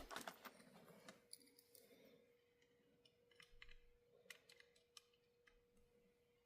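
Near silence with faint small clicks and taps, a quick cluster in the first second and a few single ones later, from small model-locomotive parts and tools being handled, over a faint steady hum.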